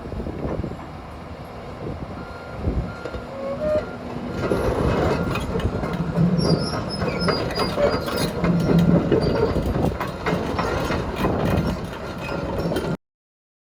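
Komatsu PC228USLC-10 tracked excavator on the move, its steel tracks clanking and squealing over the engine's running noise. The sound cuts off suddenly near the end.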